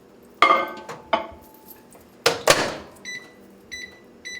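Microwave oven being loaded and set: three loud clunks and knocks in the first few seconds, then three short high keypad beeps about half a second apart near the end.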